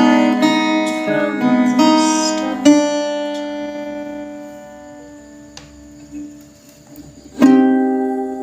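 Acoustic guitar strumming chords; about a third of the way in, one chord is struck and left to ring out, fading slowly over several seconds, before strumming starts again loudly near the end.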